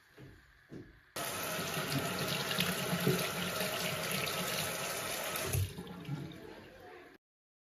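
Water running from a tap into a sink: it starts suddenly about a second in, runs steadily, eases off near the end and then cuts out abruptly.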